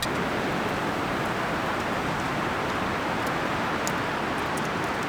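Steady rushing of strong wind through the trees, with a few faint ticks about three to four seconds in.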